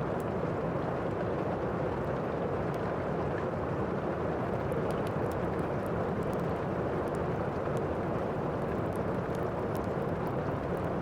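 Thunderstorm ambience: steady rain making a low, even rush, with faint crackles from a fireplace ticking through it.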